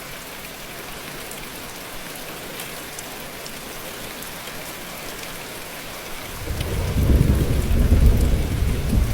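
Steady rain falling, with a low rumble of thunder rolling in about six seconds in and growing louder toward the end.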